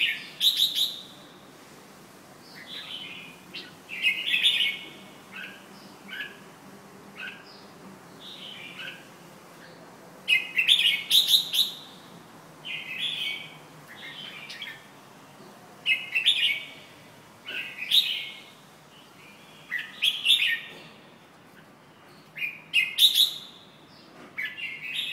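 Red-whiskered bulbul (burung jambul) singing: short phrases of quick chirped whistles repeated every two to three seconds, with quieter single chirps in between.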